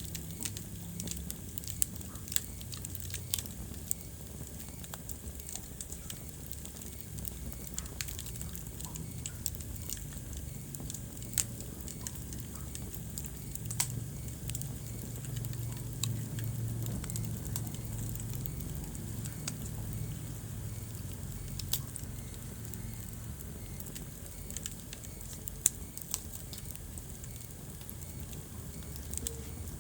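Wood fire burning in a fireplace: irregular crackles and sharp pops, a few louder snaps among them, over a low steady rumble of the flames.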